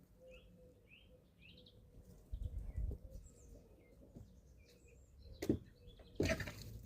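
Young chickens giving short high peeping chirps while feeding, with a low rumble a few seconds in and a sharp knock followed by a louder brief rustling burst near the end.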